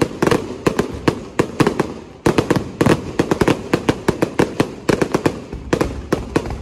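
Aerial fireworks bursting overhead: a rapid, irregular volley of sharp bangs, several a second, with a brief lull about two seconds in before the bangs resume.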